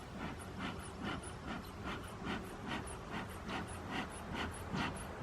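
Bee smoker's bellows being pumped by hand, a quick rhythmic puffing of air about two and a half times a second.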